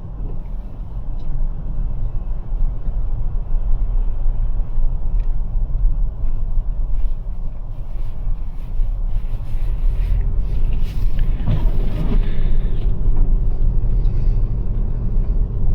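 Cabin noise of a Toyota RAV4 Prime driving on Blizzak snow tires through snow and wind: a steady low rumble from the tyres and road. Some higher noise swells briefly about two-thirds of the way through.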